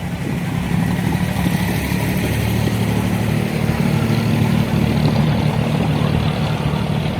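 Abra water taxi's diesel engine running steadily, getting louder about a second in.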